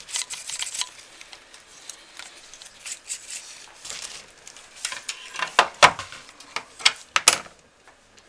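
Brush bristles scraping in quick strokes over the plastic blades of a PC power-supply cooling fan, then several sharp clicks and knocks of small hard objects being handled and set down, the loudest two about six and seven seconds in.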